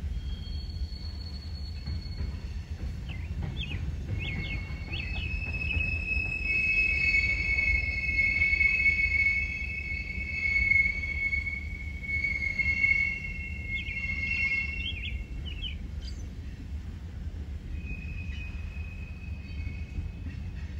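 Train rolling by with a steady low rumble. From about four seconds in, its wheels squeal: several high steady squealing tones that slide in, hold for about ten seconds and die away, with a fainter squeal near the end.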